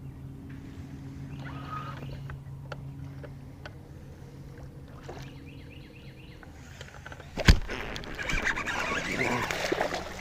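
A boat's electric trolling motor hums steadily, then goes quiet; about seven and a half seconds in comes a sharp knock, then a couple of seconds of water splashing as a hooked bass is fought at the surface.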